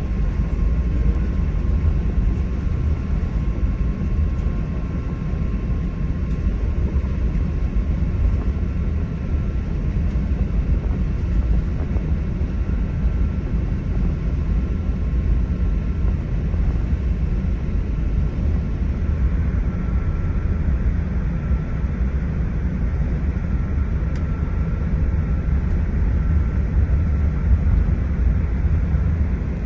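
Steady low rumble of cabin noise inside an Airbus A380 airliner, engine and airflow noise with a faint thin whine above it.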